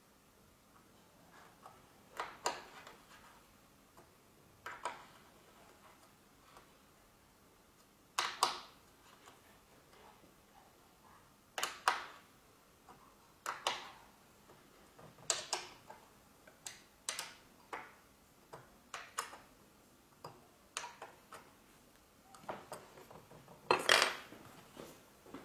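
Irregular metallic clinks and taps from handling aluminium guide rails and fittings: a dozen or so separate sharp knocks, the loudest near the end.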